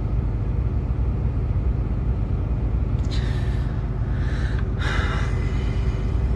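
Steady low rumble inside a truck cab, with two short breathy hisses about halfway through.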